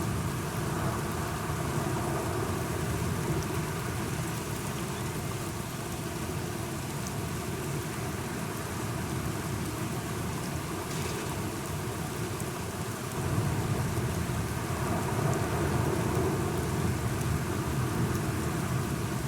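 Steady rain falling, with a low rumble of thunder swelling about two-thirds of the way through.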